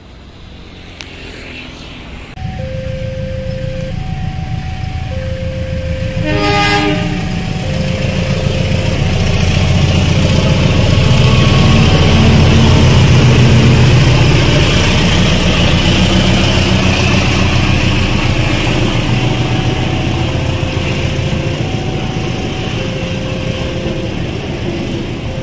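A level-crossing warning alarm sounds two alternating tones, about one a second. A short train horn blast comes about six seconds in. Then a KAI CC 201 diesel-electric locomotive rumbles past at close range hauling passenger coaches, loudest about halfway through and easing off toward the end.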